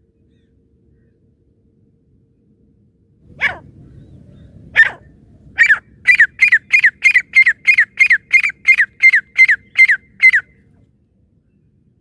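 Francolin (teetar) calling: after a few seconds of quiet, two single sharp notes, then a fast run of about a dozen repeated falling notes at roughly three a second.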